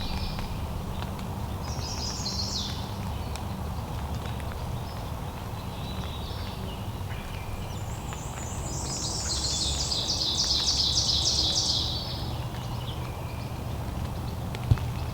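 A small songbird singing: a couple of short high phrases, then a long, rapid trill of quickly repeated high notes in the middle, over a steady low background rumble. A single sharp click near the end.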